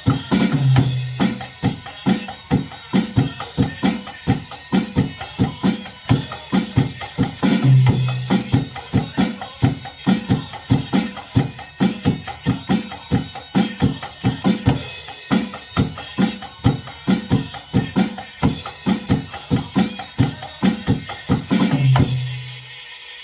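Drum kit played to a song, a steady beat of kick and snare strikes over the music. The playing and the music stop together near the end, leaving a fading ring.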